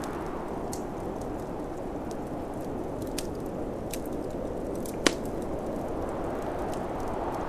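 Wood fire crackling in a fireplace, with scattered small snaps and one sharp pop about five seconds in, over a steady low rush of snowstorm wind.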